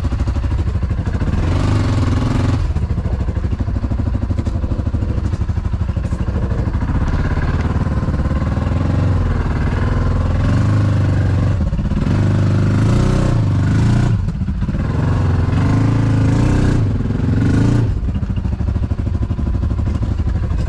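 ATV engine running and revving up and down repeatedly as the quad is shuffled back and forth, between reverse and forward, to position it.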